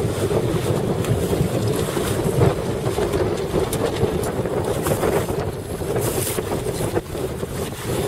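Strong wind buffeting the microphone on the water, a dense rumble with a steady hum underneath.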